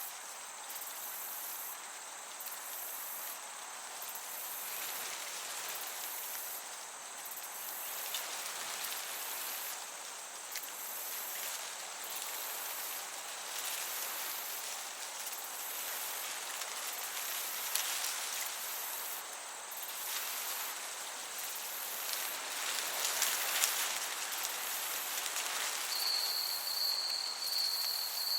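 Summer meadow ambience: crickets chirping in a fast, even pulse very high in pitch over a steady soft hiss of breeze. Near the end, another insect joins with a steady high trill.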